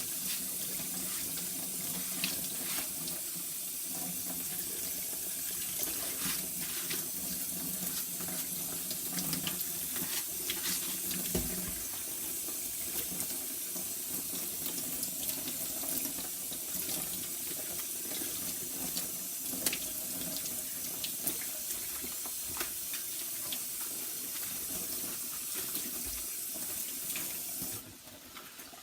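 Kitchen tap running into a sink while cabbage is washed under it, with scattered small knocks and splashes. The water is turned off abruptly about a second before the end.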